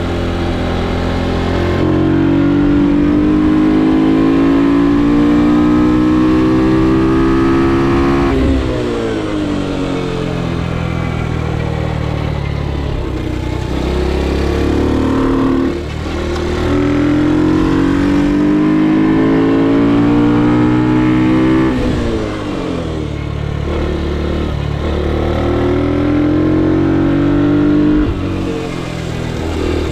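Ohvale GP2 minibike's 110cc four-stroke single-cylinder engine heard onboard, revving up with a long rising pitch and then dropping off sharply as the throttle closes. This happens three times: once early on, once in the middle and once near the end.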